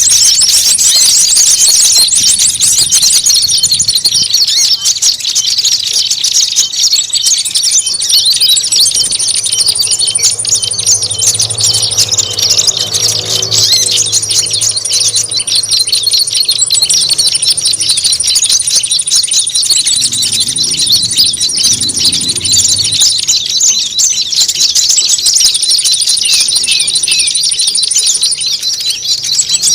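Bird-lure recording of a noisy crowd of small birds chattering and chirping rapidly without pause, with a thin, high, steady whistle that breaks off and starts again every few seconds.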